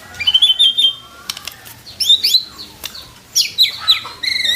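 White-rumped shama singing in full voice: loud, varied whistled phrases with short pauses between them, breaking into a fast run of repeated notes near the end.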